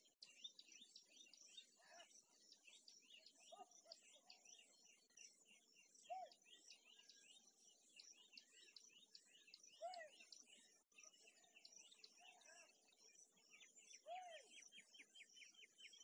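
Faint birdsong: a steady stream of rapid high chirps throughout, with a short, lower call every few seconds.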